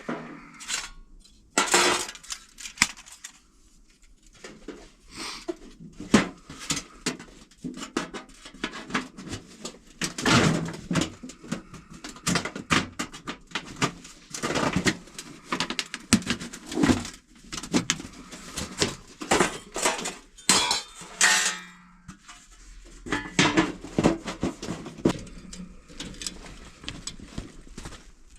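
Camp cookware and utensils being handled: irregular knocks, clinks and scrapes of pots and cutlery, some with a short metallic ring.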